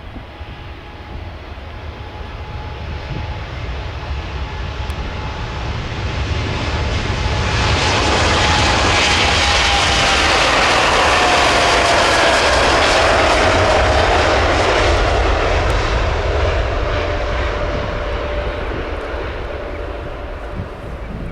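A Boeing 787-9's GEnx turbofan engines at takeoff power as the jet passes by. The engine noise builds, peaks about halfway through with a whine that falls in pitch as it goes past, then fades away.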